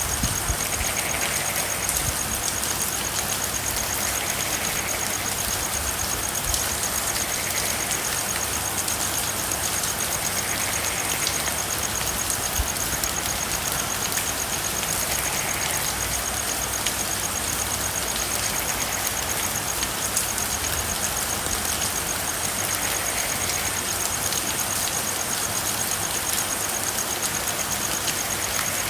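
Steady rain falling, with frogs calling now and then and a steady high trill.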